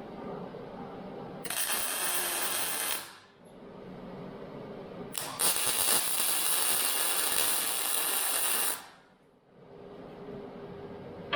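Electric arc welding on Hardox steel plate: two welding runs, a short one of about a second and a half and then a longer one of about three and a half seconds, each a steady hiss that starts and stops abruptly.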